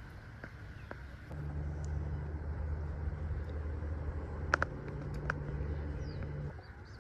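A low, steady engine hum starts about a second in and cuts off near the end, with a couple of sharp clicks in the middle.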